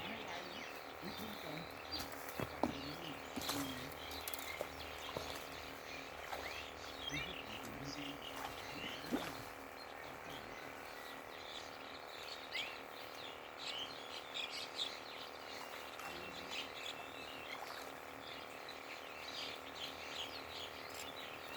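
Frogs calling at the water's edge: many short, high chirping calls scattered throughout, over a steady outdoor background.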